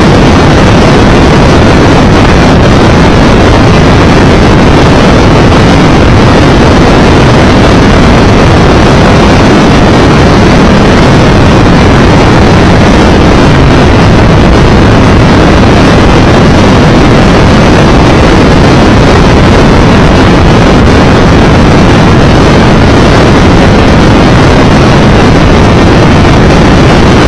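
Triumph Tiger Explorer 1200 motorcycle being ridden at a steady pace: a loud, even drone of engine and wind rush with no changes.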